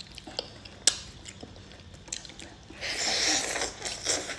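Close-up mouth sounds of someone eating boiled chicken: chewing and small smacks, with a sharp click about a second in and a louder noisy stretch around three seconds in.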